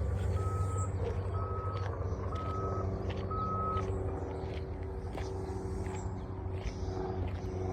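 A vehicle's reversing alarm beeping about once a second, four beeps that stop about four seconds in, over a low steady rumble.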